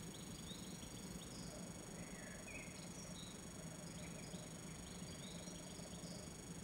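Faint, scattered bird chirps over a steady background hiss and low hum.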